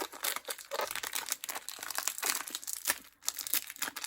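Plastic wrapper of a small pack of thin Oreo cookies crinkling and tearing as it is handled and opened.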